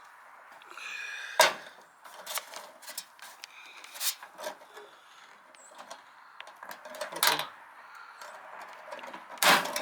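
Rivet gun setting a blind rivet: a series of sharp clicks and snaps as it is worked, the loudest about one and a half seconds in.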